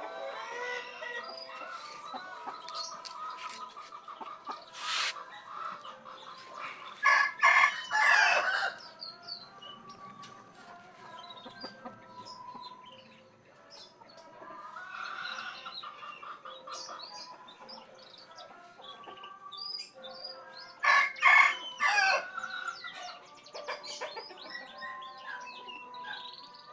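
A rooster crowing twice, about fourteen seconds apart, with smaller birds chirping between the crows.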